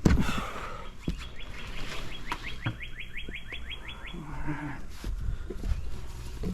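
A bird outdoors singing a fast trill of about sixteen repeated up-slurred notes, roughly five a second, lasting about three seconds. A sharp knock is heard at the very start.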